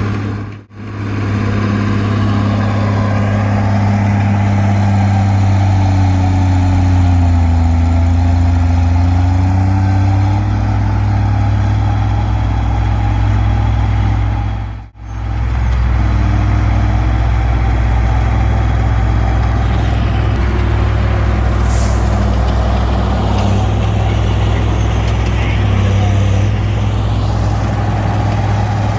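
Komatsu D20P bulldozer's diesel engine running steadily under load while pushing brush. The sound drops out briefly twice, about a second in and about halfway through.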